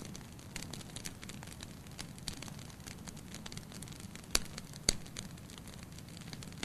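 Wood fire crackling in a fireplace: a steady low rumble of burning with many small irregular crackles, and two sharp loud pops about half a second apart just past the middle.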